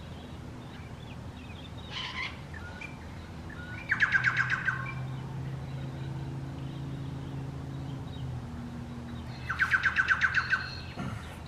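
A bird calling in two loud bursts of rapid repeated chirps, each about a second long: one about four seconds in and one near the end. A fainter call comes near the start, over a faint steady low hum.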